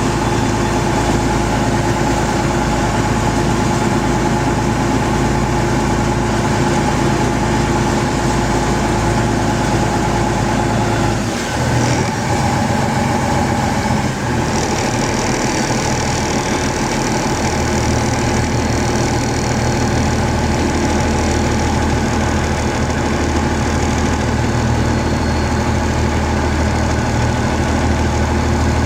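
Fishing boat's engine running steadily; about eleven seconds in its note changes as the engine speed shifts.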